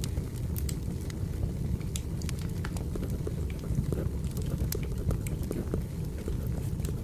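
Burning firewood: a steady low rumble with irregular sharp crackles and pops scattered throughout.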